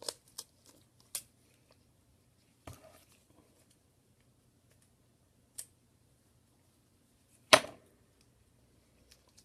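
Scattered clicks and taps of scotch tape being handled over the cracked glass of an iPhone 6 screen, with one much sharper snap about seven and a half seconds in.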